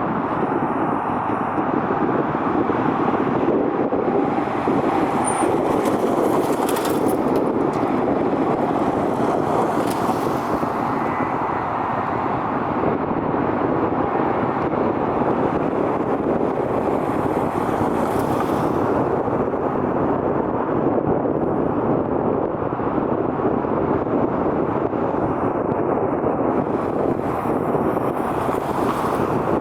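Steady vehicle noise: an even, unbroken rush that holds the same level throughout, with no clear rise or fall.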